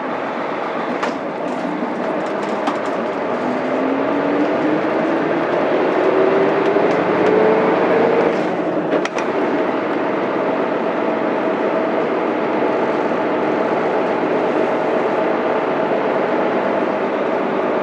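Mitsubishi Fuso Aerostar bus's 6M70 diesel straight-six heard from inside the cabin, its pitch rising steadily as the bus accelerates in gear. About nine seconds in the sound dips briefly with a few clicks as a gear is changed on the five-speed manual box, and the engine then runs steadily with road noise.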